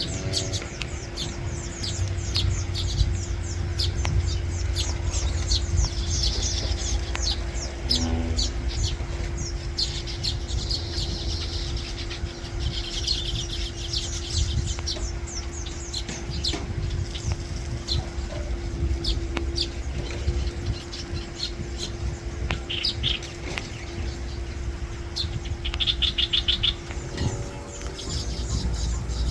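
Baya weavers chirping and chattering: many quick high chirps with buzzy trills, busiest near the end, over a steady low hum and rumble.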